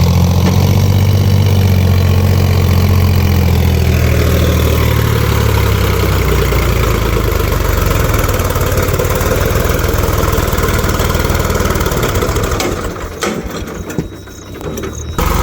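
Loaded farm tractor's diesel engine running hard as it strains to pull a trailer of soil up a ramp and fails to make the climb. The strong low engine note holds for the first few seconds, then fades into a rougher rumble, with a brief dip in level near the end.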